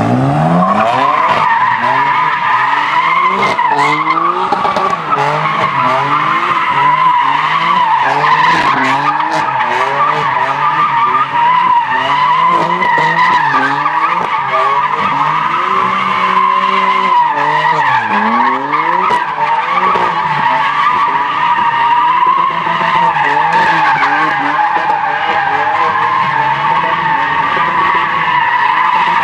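Car spinning its rear tyres in a long continuous screech, the squeal wavering in pitch, while the engine revs rise and fall over and over under the driver's foot. The shredding tyres throw off bits of rubber.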